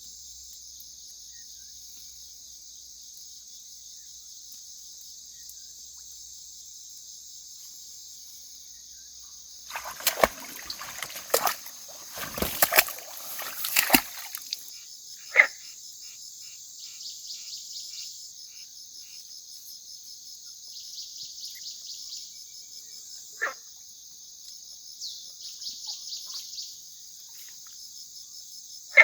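Steady, finely pulsing insect chorus, with a few seconds of loud splashing and knocking about ten seconds in, then a couple of single clicks.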